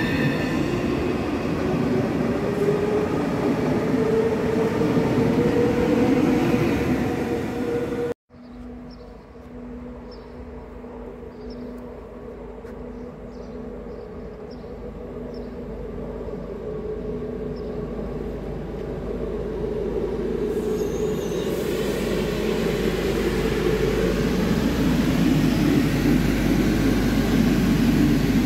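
Stadler FLIRT electric multiple unit (SŽ 510) pulling away, its traction drive whining and rising in pitch. About eight seconds in it cuts off abruptly to an SŽ 814 diesel railcar approaching, its engine and wheels growing steadily louder as it comes in.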